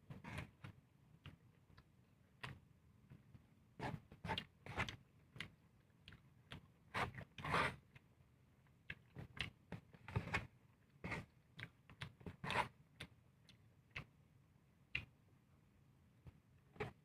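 Close-up eating sounds of a person chewing and smacking on a mouthful of bopis and rice. The sounds come as short, irregular clicks and smacks, with a few longer ones in the middle.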